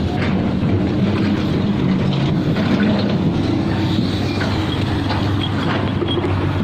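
Diesel engines of heavy construction machinery running steadily, a low engine drone with some light clatter.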